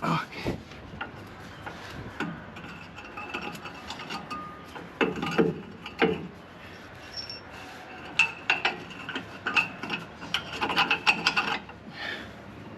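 Hand tools and metal suspension parts being worked during a rear shock replacement: irregular clicks, knocks and rubbing, with a dense run of rapid clicks near the end.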